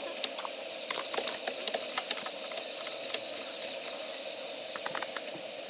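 Wood fire burning: irregular crackles and sharp pops, bunched about a second in and again near the end, over a steady hiss.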